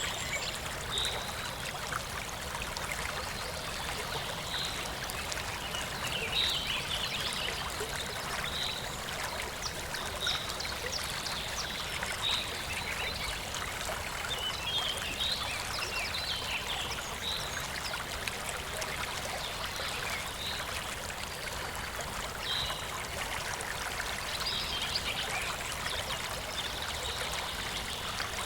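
A stream flowing and trickling steadily, with short high chirps from small animals recurring every second or two.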